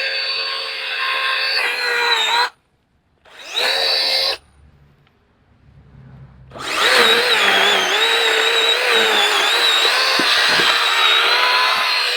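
Cordless electric chainsaw running with a steady high motor and chain whine. It cuts off suddenly, starts again for about a second, pauses for a couple of seconds, then runs again with its pitch dipping and wavering.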